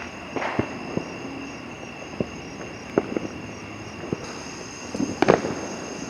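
Fireworks and firecrackers going off at varying distances: irregular sharp bangs and pops, the loudest a little past five seconds in.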